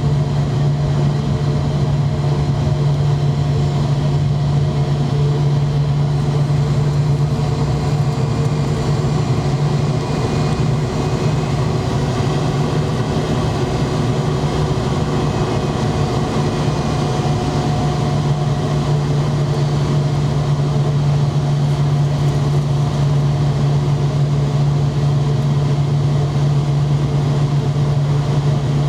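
Steady drone of a McDonnell Douglas MD-90 airliner with its engines running at low power on the ground, a strong low hum with fainter steady tones above it and no change in pitch.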